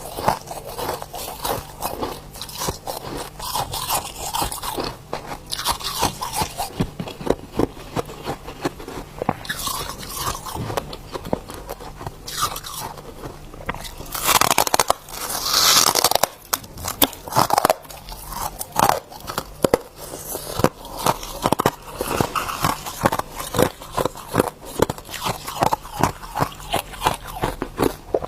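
Ice being bitten and chewed close to the microphone: a rapid, continuous crunching and crackling of hard, brittle ice, louder for a couple of seconds about halfway through.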